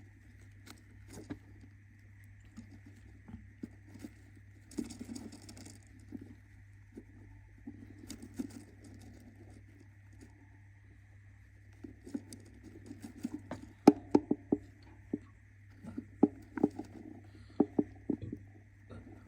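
A budgie scratching, shuffling and tapping about, with a quick run of sharp pecks or taps about two-thirds of the way in. A steady low electrical hum and a faint steady high tone run underneath.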